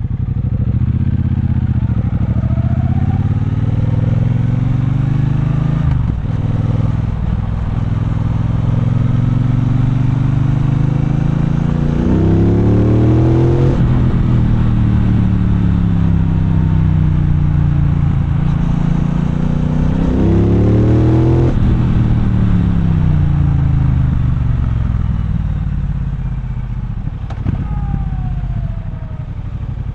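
Triumph Bonneville Bobber's parallel-twin engine under way, heard from the saddle: revs climb and drop sharply at gear changes about six, thirteen and twenty-one seconds in. Near the end the engine slows steadily as the bike decelerates.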